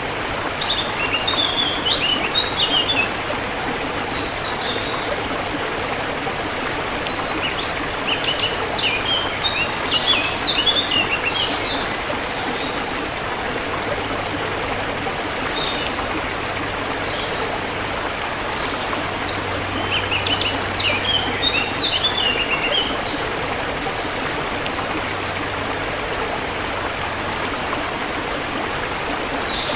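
Forest river flowing steadily, with songbirds singing bursts of quick chirping phrases over it, three main bouts a few seconds long.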